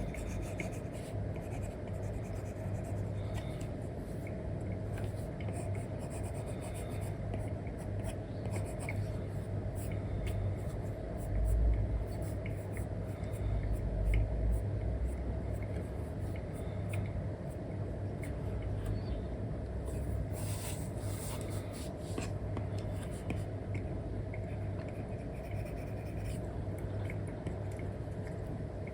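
Apple Pencil 2 nib stroking and tapping across an iPad screen covered with a paper-like film: a run of short scratchy strokes and light ticks over a steady low hum, with a couple of soft low bumps about halfway through.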